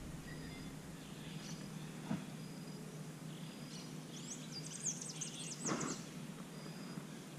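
Wild birds calling over quiet outdoor background noise: a quick run of high, sweeping chirps from about four to six seconds in, with a few faint short high notes before it. A single soft knock about two seconds in.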